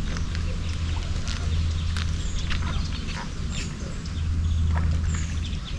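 Ducklings peeping, short high falling calls repeating about every second and a half, over a steady low rumble.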